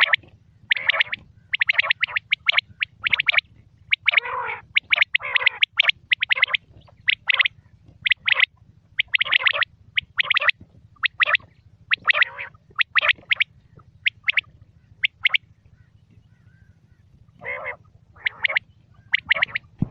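Quail (batair) calling over and over in quick bursts of short, rapid call notes, with a brief pause about three quarters of the way through.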